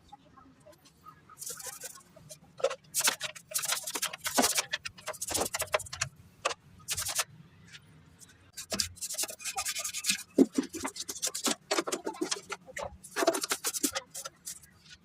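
A stiff brush scrubbing a car engine bay with soapy detergent water, in repeated rough strokes with short pauses between.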